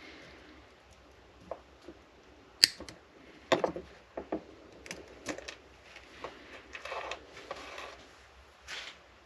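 Hands handling small parts and tools while dismantling a model train locomotive: scattered sharp clicks and light taps with some rustling, the sharpest click about two and a half seconds in.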